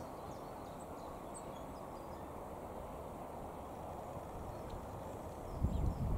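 Class 150 Sprinter diesel multiple unit rolling slowly into a station: a steady low rumble, which grows into louder, uneven low thumping near the end as the train draws close.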